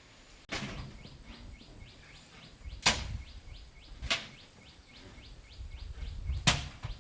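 Four sharp knocks, spaced a second or more apart, over rapid short chirps repeated about four times a second and a steady thin high whine, typical of forest birds and insects.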